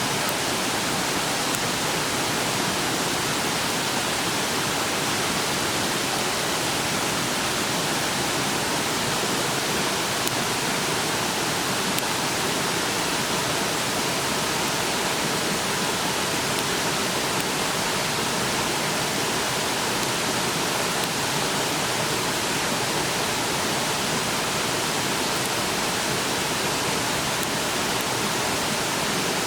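Steady rushing of a clear river: an even, unbroken wash of flowing water.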